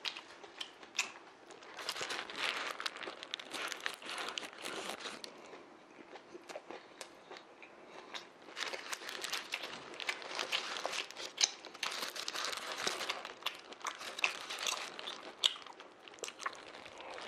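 Close-miked biting and chewing of a Subway sandwich, with crunching of fresh vegetables and crinkling of the sandwich's paper wrapper. There is a quieter lull about six seconds in.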